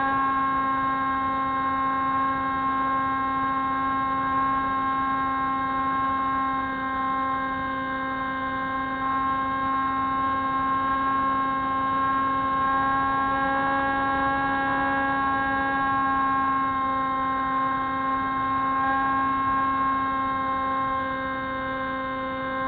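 Spyhawk FPV model plane's motor and propeller running at a steady cruise throttle: a continuous pitched hum with many overtones, its pitch wavering only slightly.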